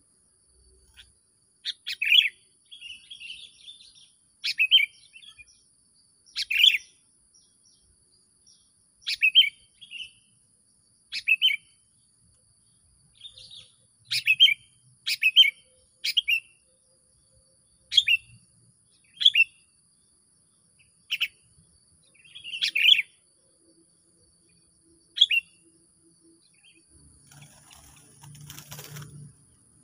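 A songbird giving short, sharp calls again and again, one every second or two, each a quick downward note, some with a brief warble after it. Near the end there is a short rustle.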